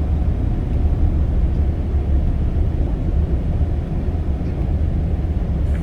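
Steady low engine and road rumble heard from inside a moving vehicle climbing a mountain road.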